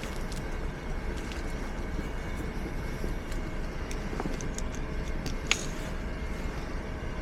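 Riding noise from a fat-tyre e-bike on a wet road: a steady low rumble of wind and tyres, with scattered sharp ticks and one louder click about five and a half seconds in.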